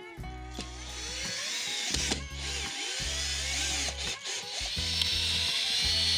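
A power tool running on wood, a dense whirring noise that builds and grows louder toward the end, over background music.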